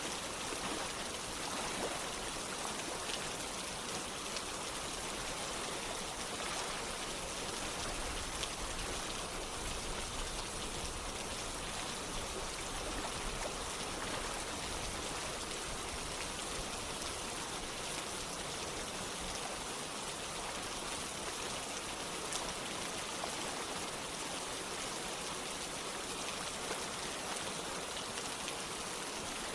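Steady rain together with running water: an even hiss with small scattered drop sounds.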